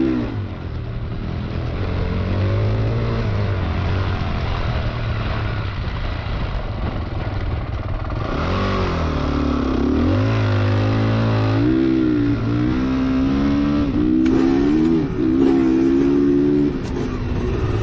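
Honda CRF450R's single-cylinder four-stroke engine under riding, its pitch climbing and dropping again and again as the throttle is worked and gears change.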